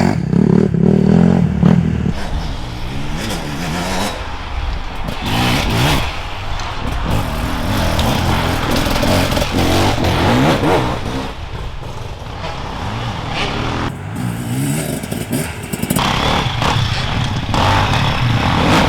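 Enduro motorcycles riding past, engines revving up and down with the throttle. One engine is loud for about the first two seconds, then the revs rise and fall repeatedly as the bikes go on.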